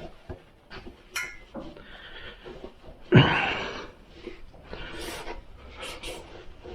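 Rustling and wiping handling noise, with scattered light clicks and one loud knock about three seconds in that rings off briefly.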